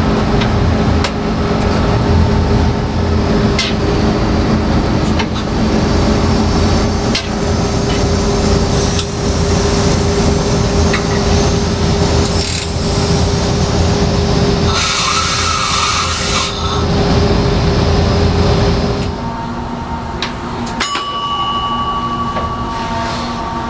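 Preserved rail vehicle running in a workshop: a steady mechanical hum with irregular clicks and knocks, a burst of hiss about fifteen seconds in, and a change in the hum a few seconds later.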